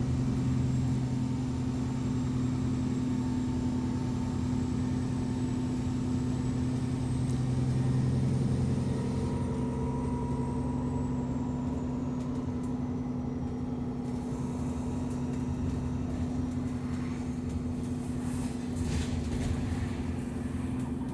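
Alexander Dennis Enviro 400 double-decker bus engine running steadily, with a high turbo whine that rises slightly and then falls away and fades about two-thirds of the way through. A few short rattles come near the end.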